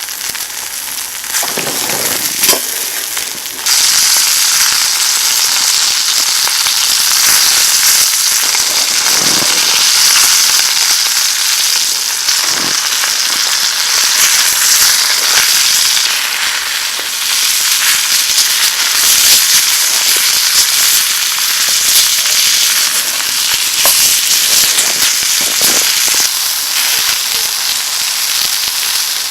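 Steak searing in the heat of a campfire: a dense, continuous sizzle dotted with sharp pops and crackles, which jumps suddenly louder a few seconds in.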